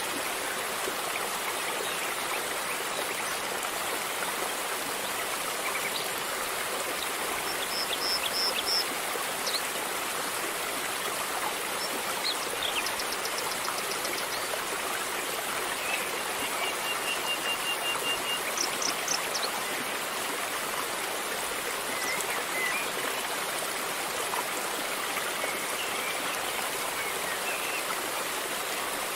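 River water flowing steadily, a constant rushing and trickling. A few short high chirps and trills, like small birds, come over it in the middle.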